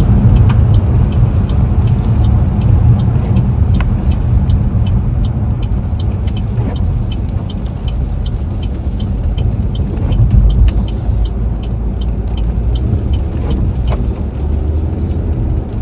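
Inside a car driving slowly on icy, slushy roads: a steady low rumble of tyres and engine, with a fast regular ticking, about three a second, through most of it.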